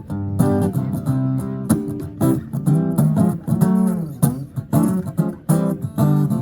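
Guitar strumming chords, the instrumental intro of a rock/Americana-style song before the singing comes in, with a steady rhythm of strokes.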